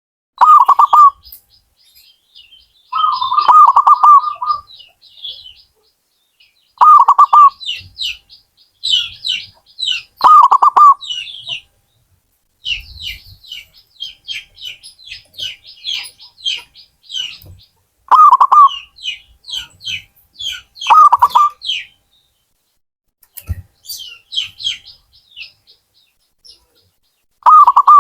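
Zebra dove (perkutut) cooing: short trilled coos repeated every few seconds, about seven in all, with a longer one about three seconds in. Quick, thin, high chirps from smaller birds run between the coos.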